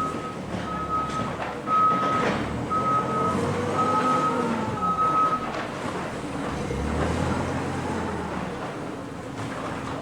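A vehicle's reversing alarm beeps steadily about once a second for the first five seconds or so, then stops. Under it, the vehicle's engine runs, its pitch rising and falling around the middle.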